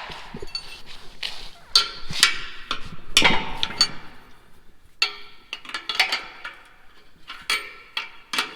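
Hand tools working on steel farm machinery: a series of irregular metal knocks and clinks, some ringing briefly, as bolts are worked loose by hand on the alfalfa drill.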